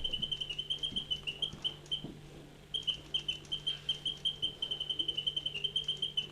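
Wind-up mechanical singing bird, its bellows-driven whistle chirping in a fast high trill of about six chirps a second, breaking off briefly about two seconds in and then starting again.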